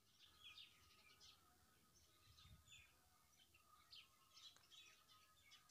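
Near silence, with faint scattered bird chirps in the distance.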